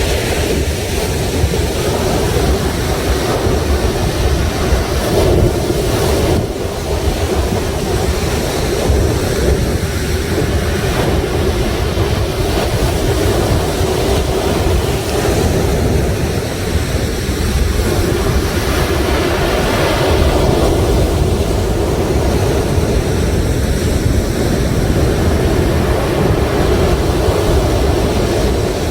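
Sea waves washing continuously onto the shore, with wind rumbling on the microphone.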